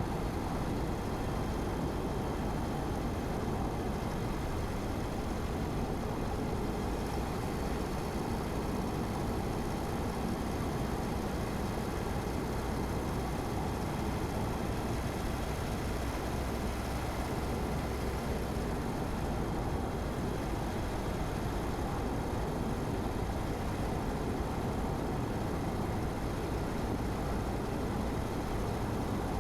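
Car driving at a steady speed: even road and tyre noise with a low engine hum, unchanging throughout.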